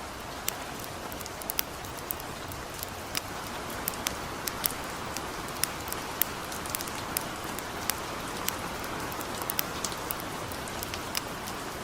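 Steady hiss of light rain with frequent irregular sharp crackles and pops, a few each second, from a crackling campfire.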